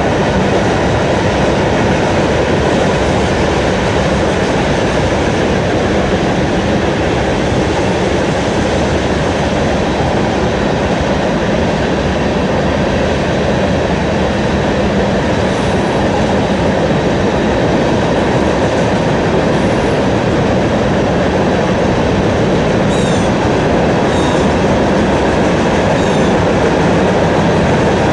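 A train rolling past close by: a steady, loud rumble and rattle of railcars on the track.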